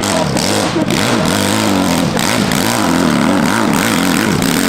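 Racing motorcycle engines running hard, their pitch rising and falling many times in quick succession as the throttle is worked.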